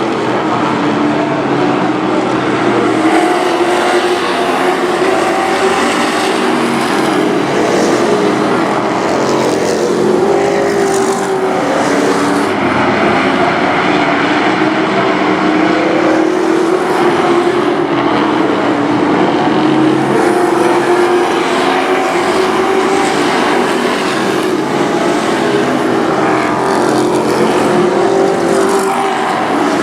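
Race trucks running laps together on a short oval: several engines at high revs, their pitch wavering up and down as the pack circles.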